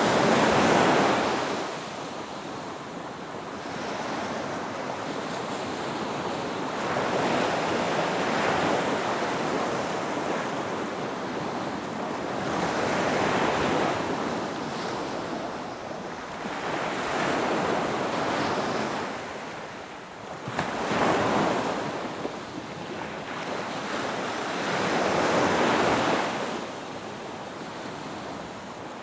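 Ocean waves breaking on a beach: a steady wash of surf that swells with each breaker, about five or six times, the loudest at the very start.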